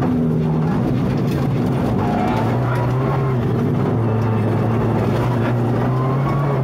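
Rally car engine running hard, heard from inside the cockpit. Its pitch drops about a second in and climbs again near the end.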